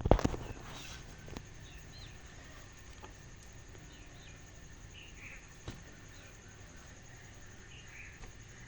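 Faint, scattered short bird chirps over a quiet outdoor background, after a loud brief knock right at the start.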